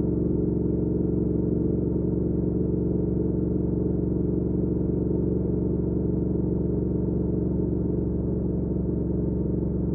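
2019 Triumph Speed Twin 1200's parallel-twin engine running at a steady speed through an aftermarket Weslake Shorty Pro exhaust, cruising under way. Its note holds one pitch throughout.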